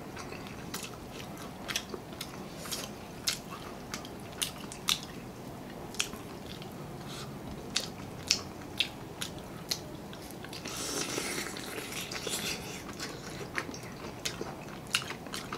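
Close-miked eating sounds: sauce-coated fried chicken and watermelon being bitten and chewed, with many short, sharp wet clicks of chewing and lip smacks, and a longer, noisier stretch of chewing about eleven seconds in.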